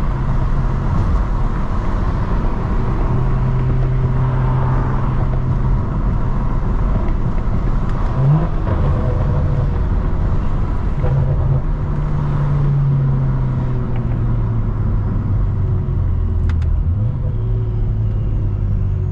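Straight-piped BMW 335i (E92) N55 turbocharged inline-six exhaust droning while the car cruises, its pitch stepping up and down a few times with changes in engine speed, with a brief quick rise about eight seconds in.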